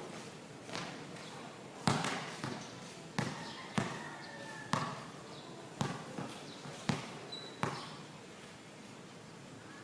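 A basketball bouncing on a court: about nine sharp bounces at an uneven pace, roughly one every half second to a second, with faint voices in the background.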